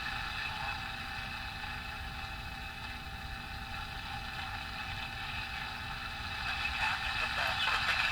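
1954 General Electric C407 tube radio's speaker giving steady static hiss as it is tuned between stations, with a station's voice starting to come through near the end.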